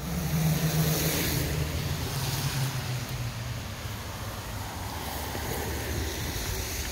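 Steady engine hum and road noise inside a moving car, with brief swells of hiss.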